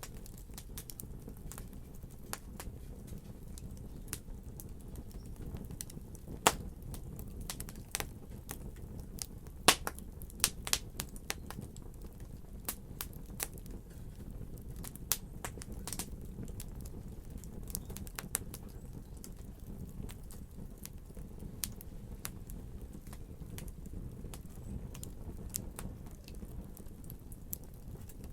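Wood fire crackling: sharp pops and snaps at irregular intervals over a steady low rumble of the flames, with a louder pop about six and a half seconds in and another just under ten seconds in, followed by a quick run of snaps.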